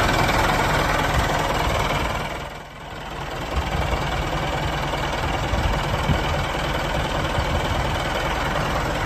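Small engine of a model mini tractor running steadily with a knocking rumble, briefly dropping in level about two and a half seconds in and then picking back up.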